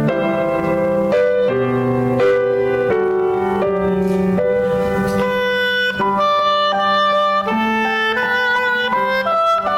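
Instrumental music: piano with a held melody line played over it, the melody climbing higher in the second half.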